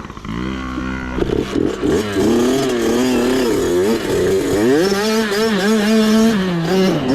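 Mini bike engine revving up and down, its pitch rising and falling again and again as the throttle is worked.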